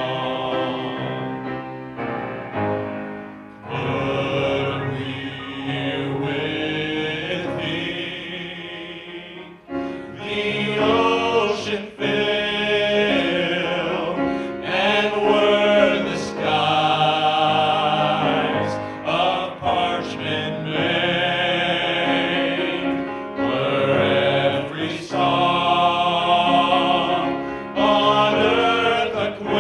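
A vocal group singing a hymn, phrase by phrase with long held notes.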